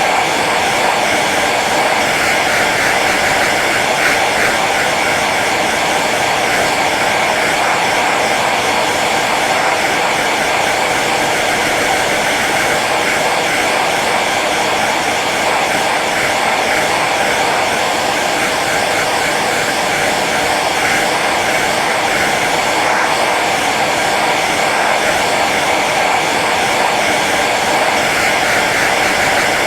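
Hair dryer running steadily on its low setting: an even, unbroken rush of blown air and fan motor.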